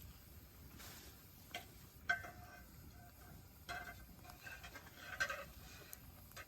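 Campfire crackling, with scattered sharp pops and snaps, the loudest about two seconds in and again about five seconds in.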